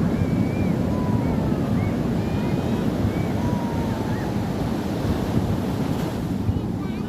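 Wind buffeting the microphone over the steady rumble of surf on a beach. A few faint, short high-pitched calls sound over it.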